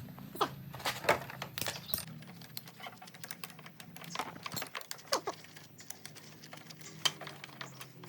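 Irregular small metallic clicks, taps and clinks from hand tools and parts being handled in a workshop, over a faint steady low hum.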